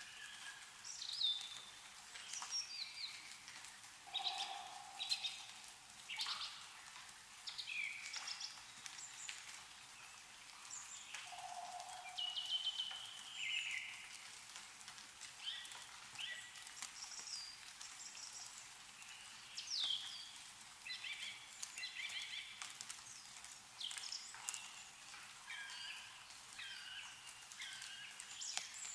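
Several songbirds chirping and calling in quick, overlapping short notes and glides, over a faint steady hiss, with a few sharp ticks of meltwater dripping from snowy trees.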